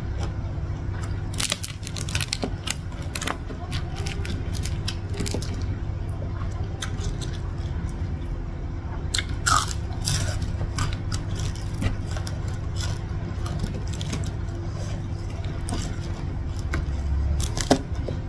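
Close-up eating sounds: chewing and crunching with many short mouth clicks, over a steady low hum.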